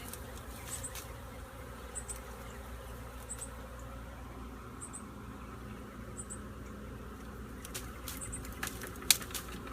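Swarm of honeybees buzzing as a steady low hum. Faint high double chirps come about every second and a half, and a few sharp clicks sound near the end, the loudest one about a second before the end.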